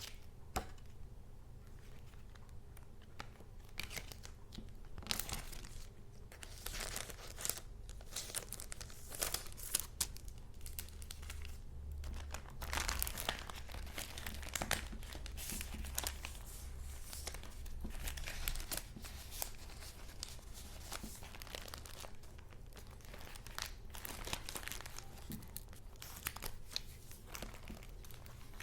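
Paper goods being handled: dense, irregular rustling and crinkling of paper, with sharp crackles.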